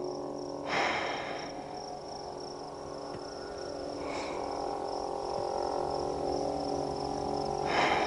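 Insects chirping in a steady, high-pitched trill. Two short rushes of noise break in, about a second in and again near the end.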